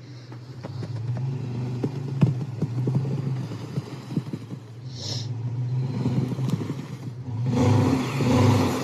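Vehicle driving: a steady low engine and road hum with frequent clattering knocks, growing louder and rising in pitch from about three-quarters of the way through.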